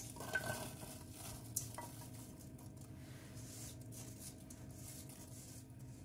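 Light clinks of a utensil against dishware: one ringing clink about half a second in and a smaller one near two seconds, over a faint steady low hum.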